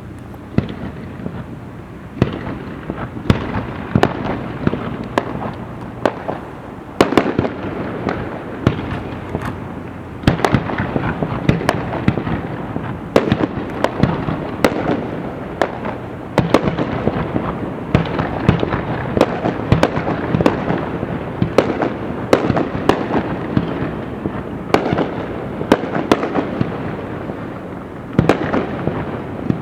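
Aerial fireworks display: a rapid series of sharp bangs from shells bursting overhead, over a continuous crackle that grows denser and louder about a third of the way in.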